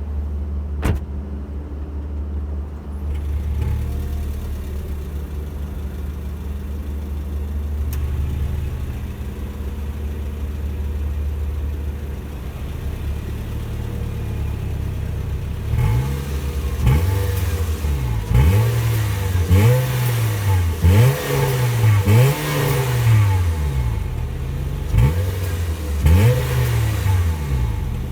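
Honda CR-Z ZF1's 1.5-litre four-cylinder engine and exhaust, completely stock, idling steadily. From a little past halfway it is blipped over and over, about once a second, each rev rising and dropping quickly back toward idle.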